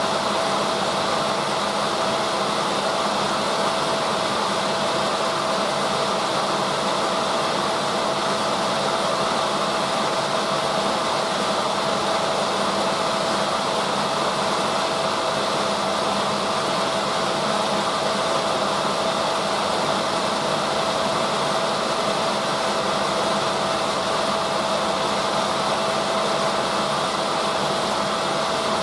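Drum washing machine running: a steady whirring noise with a constant hum tone, even in level throughout.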